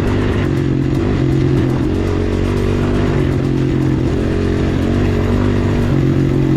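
Enduro pit bike engine running as the bike is ridden along a trail, its note stepping up and down with the throttle every second or so.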